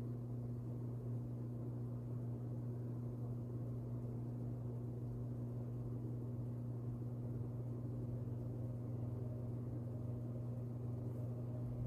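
A steady low hum with a soft rushing noise beneath it, unchanging throughout.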